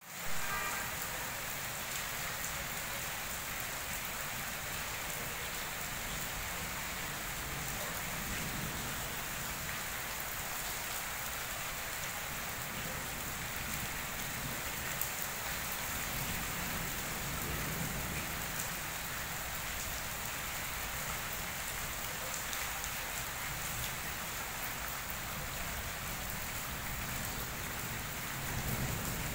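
Steady rain falling on wet paving, an even hiss with no letup.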